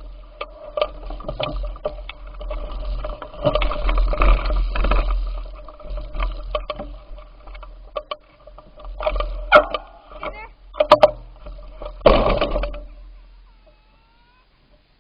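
Riding noise from a bicycle: irregular rattling knocks and clicks over wind rumble on the microphone. It dies away to near quiet about thirteen seconds in.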